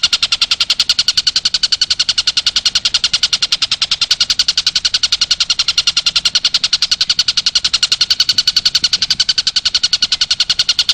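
Songbird calls from a long-tailed shrike (cendet) training recording: a rapid, even chattering trill of about ten high notes a second, repeated without a break.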